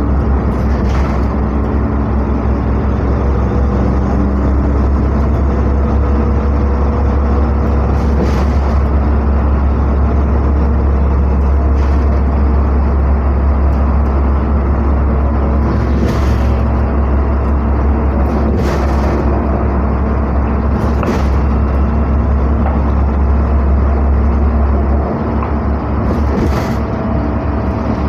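NefAZ-5299 city bus driving, heard from inside the cabin: a steady low engine drone with road noise and a few short rattles. The drone eases a little near the end.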